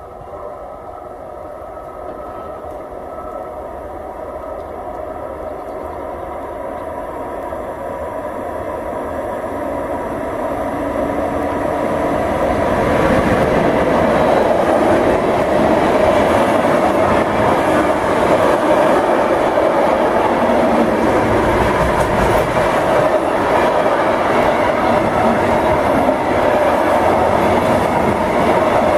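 Container freight train hauled by a Class 186 electric locomotive approaching, growing steadily louder until the locomotive passes close by about thirteen seconds in. After that, the container wagons roll past on their wheels, loud and steady.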